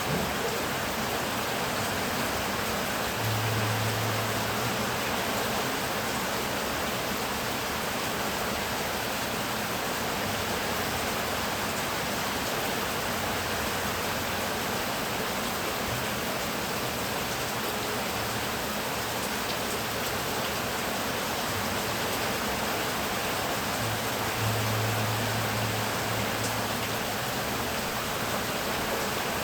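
Heavy rain falling steadily, an even hiss. A low rumble rises briefly twice, about three seconds in and again near the end.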